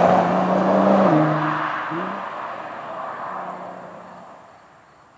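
2016 Nissan GT-R's twin-turbocharged V6 accelerating away, dropping in pitch about a second in as it shifts up. The sound fades steadily as the car drives off, until it is barely audible at the end.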